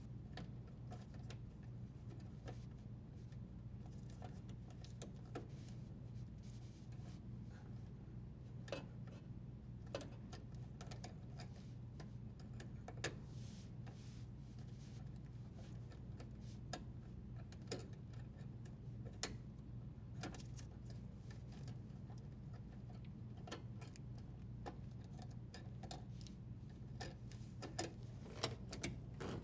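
Faint, irregular clicks and light taps as plastic wire nuts are untwisted and the power wires are handled at a dishwasher's junction box, over a steady low hum.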